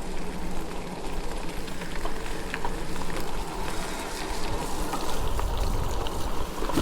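E-bike riding on a wet, muddy trail: steady wind rumble and tyre noise with scattered small crackles, and a faint steady electric-motor whine underneath.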